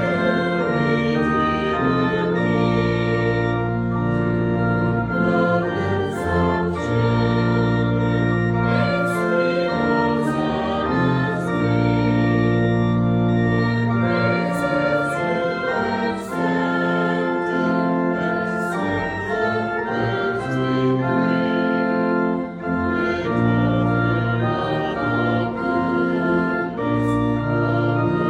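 Church organ playing a hymn in sustained chords that change every second or two, with voices singing along.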